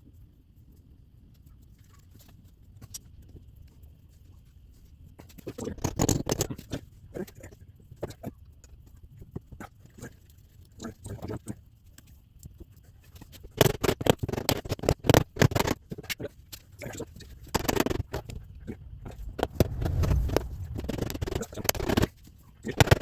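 Irregular clinks, knocks and scrapes of metal transaxle parts and hand tools being handled during reassembly of a hydrostatic transaxle. They start about five seconds in and come in uneven clusters.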